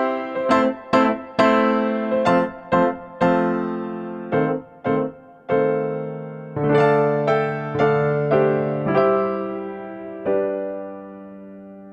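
Background piano music: a gentle melody of struck notes, quicker at first, then slower held notes that fade away near the end.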